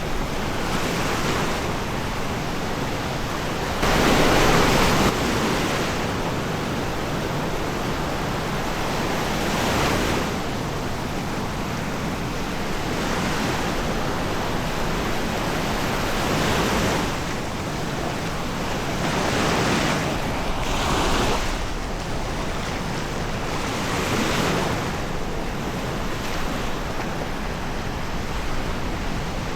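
Waves breaking and washing up on a sandy beach, a swell of surf every few seconds over a steady rush, the loudest about four seconds in.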